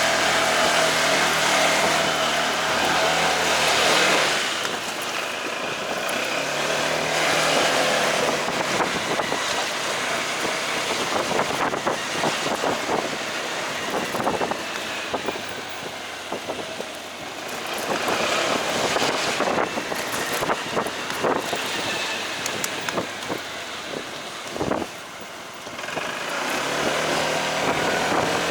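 Delivery motorcycle being ridden through city traffic: engine running with road and traffic noise, a little quieter after about four seconds.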